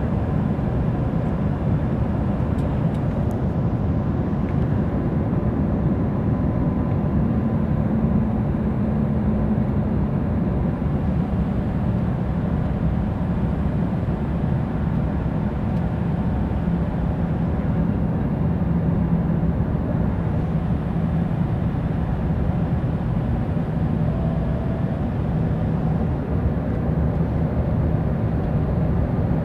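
Steady cabin noise of an Embraer 175 jet airliner in flight: the low rush of its GE CF34 turbofans and the airflow over the fuselage. A faint hum drifts slightly up and down in pitch.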